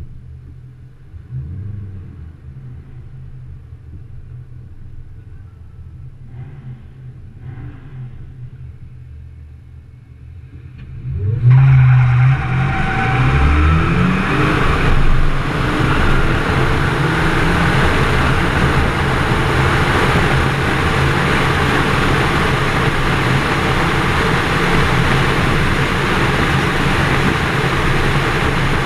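FPV GS ute's supercharged V8 idling at the start line, then launching part way through: the revs climb and step through the gears, giving way to a steady loud rush of engine and wind noise on the run down the drag strip.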